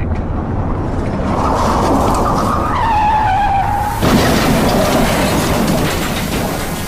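Car tyres skidding and squealing under hard braking, the squeal wavering and dropping in pitch, then a sudden louder noise about four seconds in as the car is hit.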